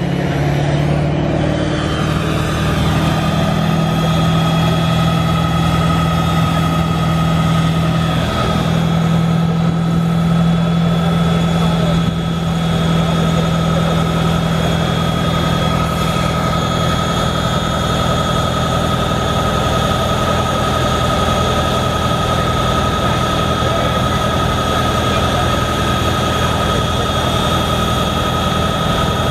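Diesel pickup truck running steadily on a chassis dyno, with a steady high whine over the engine.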